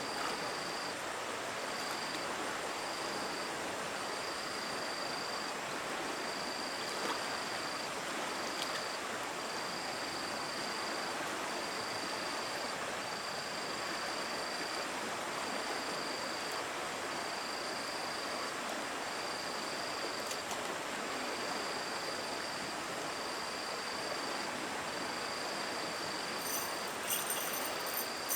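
Steady rush of flowing stream water, with an insect trilling in regular pulses about once a second. A few short high chirps come near the end.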